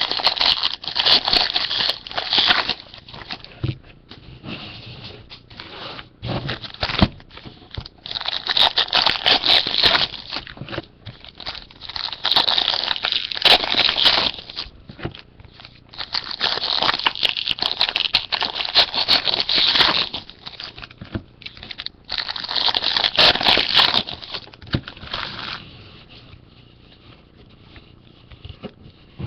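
Foil trading-card pack wrappers being torn open and crinkled by hand, in about five rustling, crackly spells of two to three seconds each.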